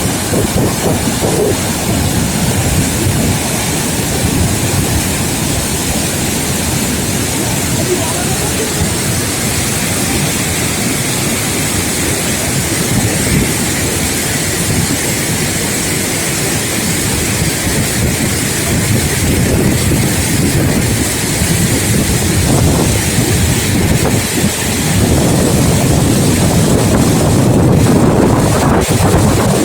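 Waterfall's steady rushing roar of falling water, with some low rumble that may include wind on the microphone; it grows a little louder near the end.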